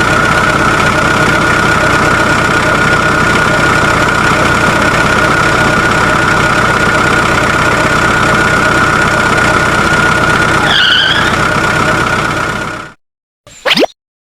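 Small DC electric motor of a homemade model machine running steadily with a constant high whine over a mechanical rattle. It cuts off suddenly near the end, followed by a short falling swish.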